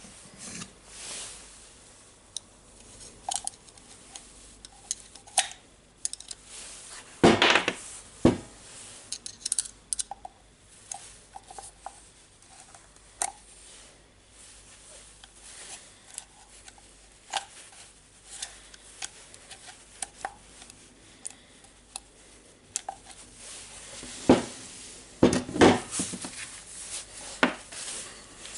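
Metal parts and hand tools clinking, tapping and knocking on a work surface as a rotary hammer drill is worked on by hand. There are scattered light clicks throughout, with two louder knocks about a quarter of the way in and a burst of louder knocks near the end.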